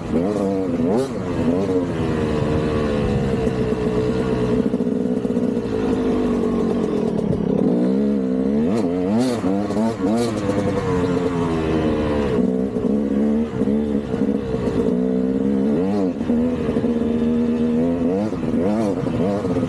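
KTM 200 two-stroke single-cylinder dirt bike engine revving up and down over and over while being ridden, with a few sharp clacks.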